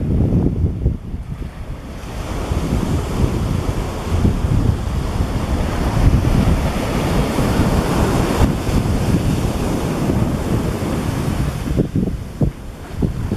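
Sea waves breaking and washing up a beach, a continuous surf with a deep rumble. A fuller wash swells about two seconds in and eases near the end. Wind buffets the microphone throughout.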